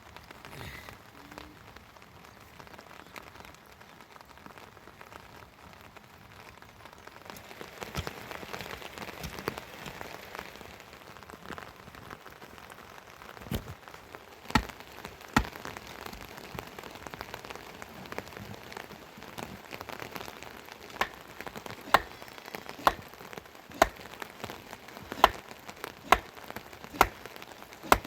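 Steady rain, growing heavier about a quarter of the way in. In the second half it is joined by sharp, loud drip impacts, a few at first and then about one a second.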